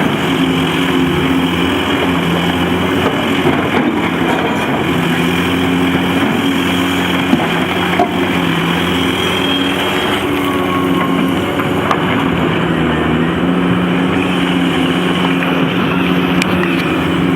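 Heavy diesel engines of a large excavator loading haul trucks, the engine pitch rising and falling every few seconds as the machine works. A couple of brief knocks come about halfway through.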